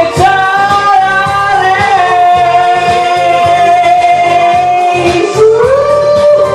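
A singer holds one long high note over a pop backing track with a steady beat, then drops and slides up into a new held note near the end.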